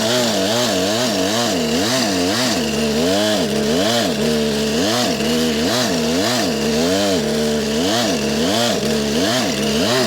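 Two-stroke gas chainsaw cutting a felling notch into a large tree trunk. The engine's pitch rises and dips about twice a second as the chain bites into the wood under load.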